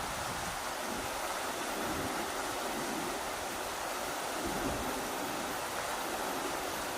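Rushing river: a steady, even rush of flowing water, with uneven low gusts of wind underneath.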